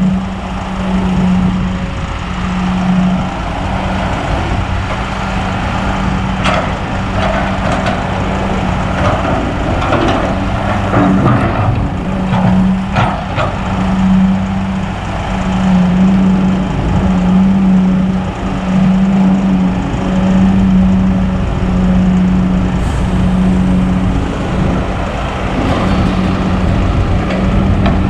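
Kobelco SK200 hydraulic excavator's diesel engine running under working load, its steady note swelling and easing about once a second. A run of sharp clattering noises comes in the middle.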